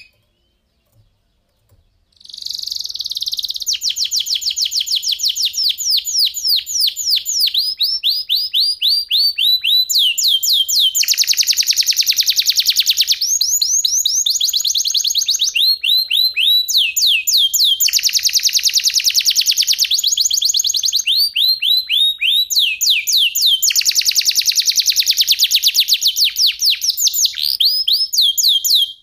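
Domestic canary singing a long, unbroken song that starts about two seconds in: fast trills of quickly repeated, high, downward-sweeping notes, broken three times by denser rattling rolls, then stopping abruptly.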